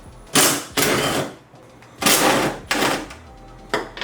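Cordless power tool spinning out 10 mm bolts in three short bursts, two of them about a second long and a brief one near the end.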